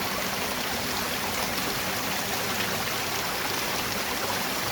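Small waterfall and stream: water pouring and rushing with a steady hiss.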